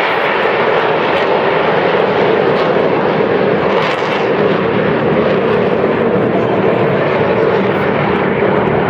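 Aermacchi MB-339 jet aircraft flying over: a loud, steady jet noise that holds level throughout.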